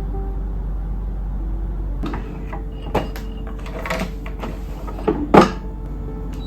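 A handful of sharp knocks and clacks of things being handled, about five in all, the loudest a little after five seconds in, over soft background music.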